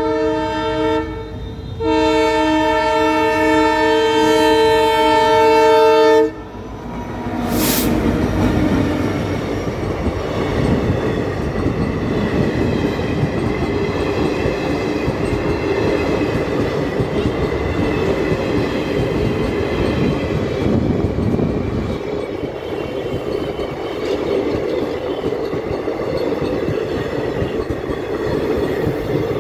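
Indian Railways passenger train's locomotive horn blows twice, a short blast and then a long one of about four seconds, as the train reaches the level crossing. Then comes the steady rumble and clatter of its sleeper coaches' wheels on the rails as they pass close by.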